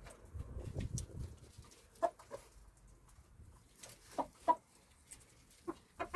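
Chickens clucking: short single clucks in pairs, spaced a second or two apart. A low rumble runs through the first second.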